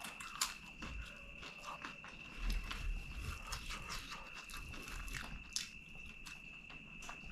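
Close-miked eating by hand: crunchy bites and chewing, with soft clicks and crackles as fingers pick food from a banana leaf.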